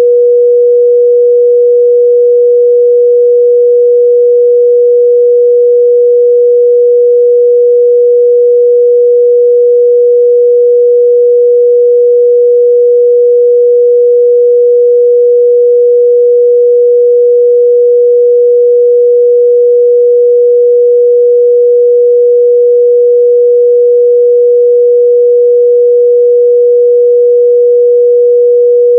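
A pure 484 Hz sine-wave test tone, held steady and loud with no change in pitch or level.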